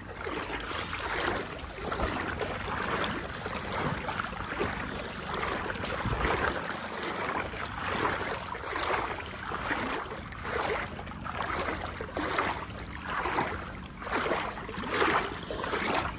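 Legs wading through knee-deep floodwater, a swish and slosh of water with each stride, about one a second.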